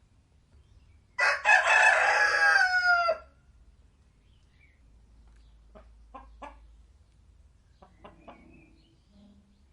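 A rooster crows once, a loud cock-a-doodle-doo about two seconds long that drops in pitch at the end. It is followed by a few faint, short clucks.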